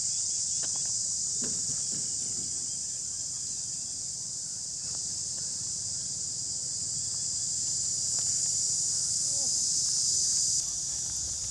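A steady, high-pitched chorus of insects buzzing in the rice paddy, continuous throughout and dropping a little in level near the end.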